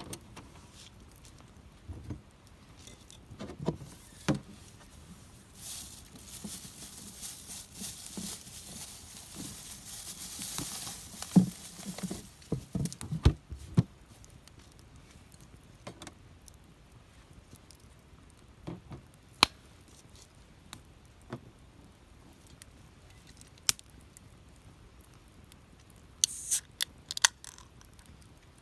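Wood campfire crackling with scattered sharp pops, with a stretch of hissing in the middle and a few louder low knocks soon after.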